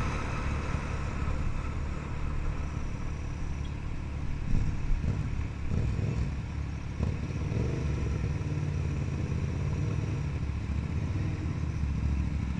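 Ducati 795 motorcycle's L-twin engine running steadily as the bike is ridden, with a few louder moments about five to seven seconds in.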